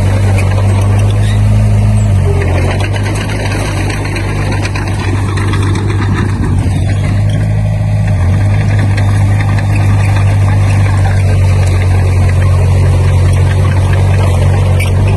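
Diesel engine of a Komatsu D20P crawler bulldozer running under load. Its steady low note steps in pitch about two seconds in and again about eight seconds in, over a constant rattly noise.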